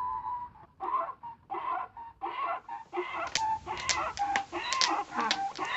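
Donkey braying sound effect: a rapid run of short, rasping, pitched calls that come faster and denser about halfway through.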